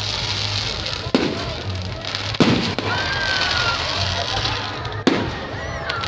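Aerial fireworks going off: three sharp bangs, about a second in, near the middle and near the end, over a steady crackling hiss, with a falling whistle partway through.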